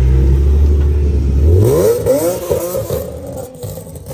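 Car engine running with a steady low note, then revving up about one and a half seconds in with its pitch climbing, and fading as it pulls away. The sound cuts off suddenly near the end.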